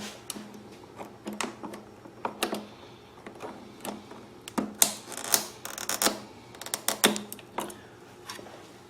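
Small sharp clicks and taps at an irregular pace, busiest in the middle, as a hose clamp is handled and fitted onto a rubber breather hose with pliers.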